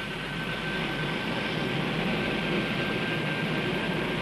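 Aircraft engine noise: a steady rushing with a faint, steady high whine, growing a little louder over the first couple of seconds.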